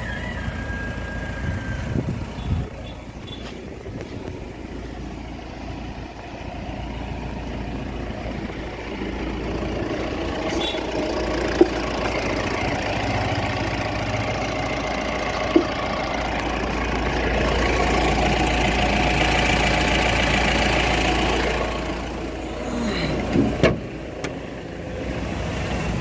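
Pickup truck's engine running steadily, growing louder through the middle and easing back near the end, with a few sharp clicks and knocks.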